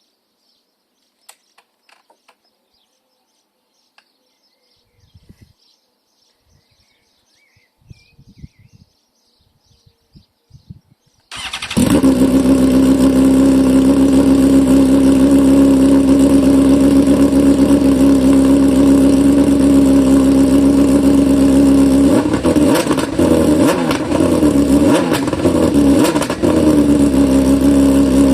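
A few faint clicks, then about eleven seconds in a BMW S1000RR's inline-four engine starts with an open, unsilenced exhaust and settles into a loud, steady idle. Near the end it is blipped several times, the pitch rising and falling with each rev.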